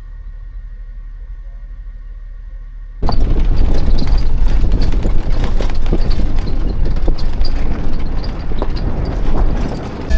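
Car on the move: a quiet, steady cabin hum, then about three seconds in, a sudden jump to loud rough rumbling and buffeting with many knocks and rattles.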